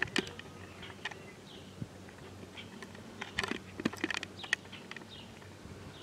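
A bird giving a few short falling chirps among scattered sharp clicks and ticks, over a faint steady low hum. The siren itself is not sounding.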